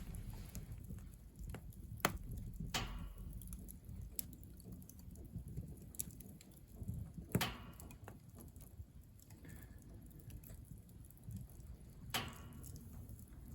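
Firewood burning in a wood stove: about half a dozen sharp, irregular crackles and pops over a low, steady rumble of the fire.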